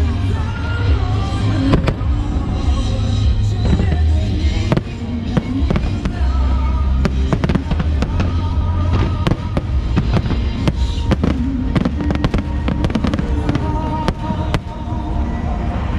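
Aerial fireworks going off in quick succession: deep booms and many sharp bangs and crackles, with music playing throughout.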